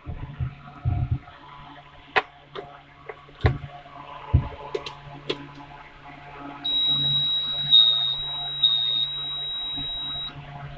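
Clicks and knocks, then a dashboard warning buzzer in a Mahindra Blazo truck's cab sounding one steady high tone for about three and a half seconds, over a low steady hum.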